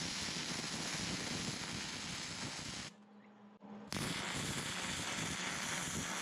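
Electric arc welding: the steady crackling hiss of the arc. It breaks off for about a second midway, when the arc is stopped and restarted, then runs on.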